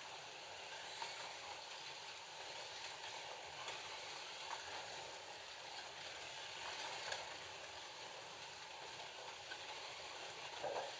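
Slot cars running laps on the track: a steady hissing whir from the cars, with a few faint clicks.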